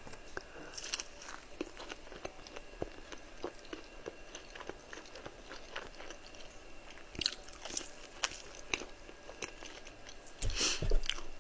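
Close-miked biting into and chewing a crispy fried chicken wing, with many small crunchy clicks. There are louder crunches about seven seconds in and near the end.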